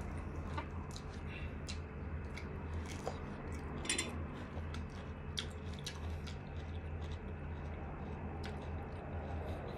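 A person eating close to the microphone: chewing with scattered wet mouth clicks and smacks, one louder cluster about four seconds in, over a steady low hum.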